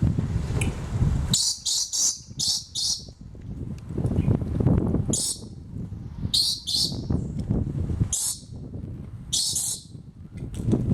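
A small bird calling loudly in sharp, high-pitched chirps. First comes a quick run of about five notes, then single chirps or groups of two or three every second or so.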